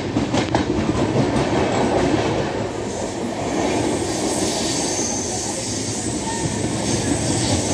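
Passenger train coaches running on the rails, heard through an open window: a steady rumble and rail noise, with a few sharp clicks of the wheels over rail joints near the start.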